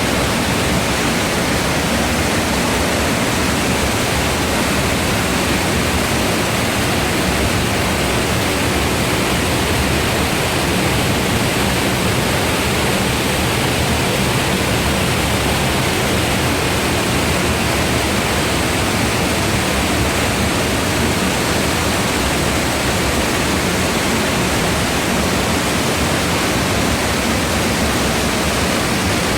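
Rushing water of the Kozjak stream, a loud, steady, unbroken hiss.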